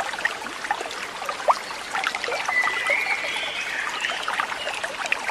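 Water trickling and babbling steadily, like a small stream, with many small splashes. A faint, thin, high wavering call sounds partway through.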